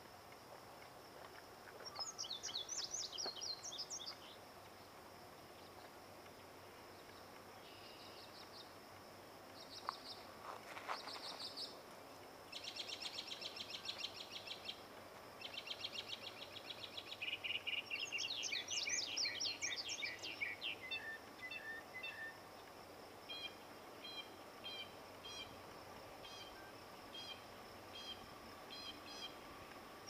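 Songbirds singing: several quick trilled phrases, then near the end a string of short repeated chirps, over a faint steady high hum.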